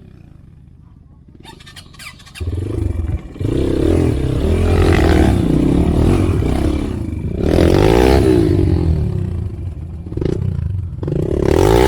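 Motorcycle engine, low for the first two seconds, then picking up and revving, rising and falling in pitch several times.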